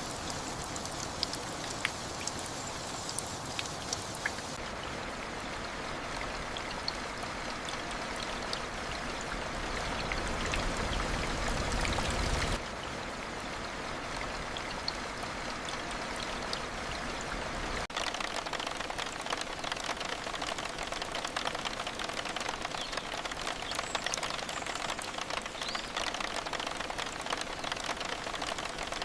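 Steady rain falling, with scattered sharper drops ticking through it. About eight seconds in it swells heavier and fuller, then cuts off suddenly a little after twelve seconds back to the lighter rain.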